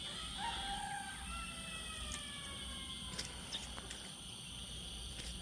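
Faint outdoor ambience: a steady high insect-like drone with a few drawn-out whistling calls that slowly fall in pitch, and a few faint clicks.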